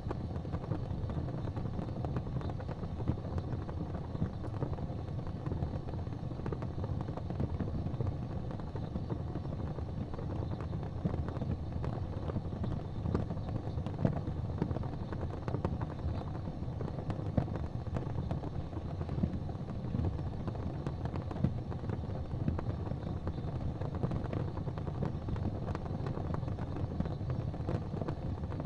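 Wood fire burning in a fireplace: a steady low roar of flames with frequent small crackles and pops.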